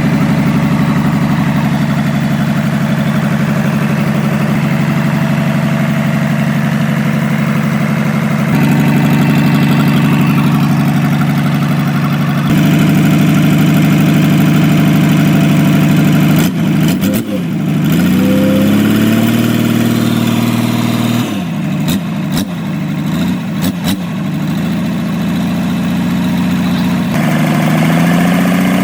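Rebuilt Hyundai six-cylinder diesel engine running at a steady idle. Its note shifts in steps every few seconds, and around the middle it dips and climbs back in pitch several times as the engine speed changes.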